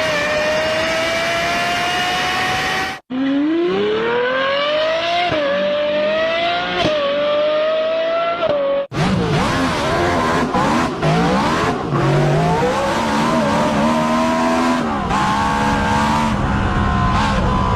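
Three short clips of high-revving V-engine race cars, cut one after another. The first holds a high, slowly rising note; the second accelerates, its pitch climbing and dropping at three gear shifts; the third is a lower, rougher engine note that rises and falls.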